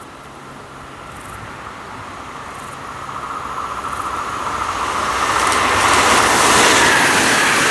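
A train approaching along the track, growing steadily louder, with a steady high ringing tone from the rails and wheels rising with it.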